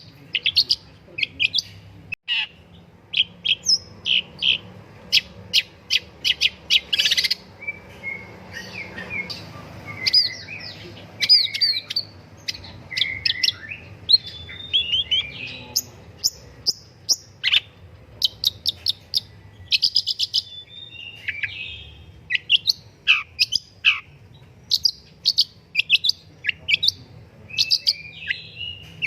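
Long-tailed shrike (pentet) singing actively: a rapid, varied run of short sharp chirps, clicks and brief trills with scarcely a pause.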